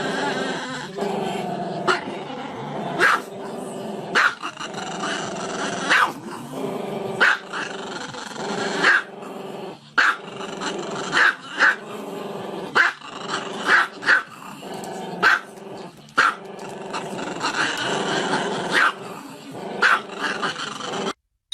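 A dog growling almost without pause, breaking into sharp, loud barks every second or two.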